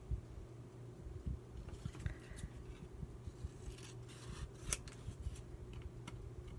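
Scissors snipping through paper in a run of short cuts, with the sharpest snip a little before the five-second mark.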